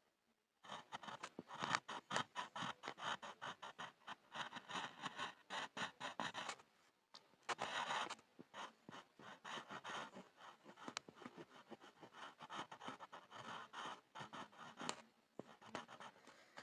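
Pencil scribbling on a board: quick back-and-forth scratching strokes, with a short pause about seven seconds in.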